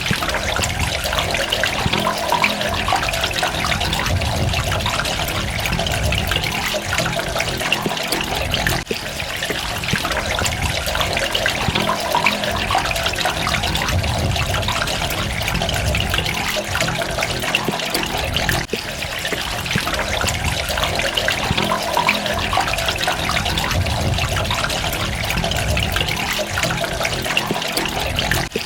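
Water running and trickling steadily, with a low rumble underneath; the level dips briefly twice.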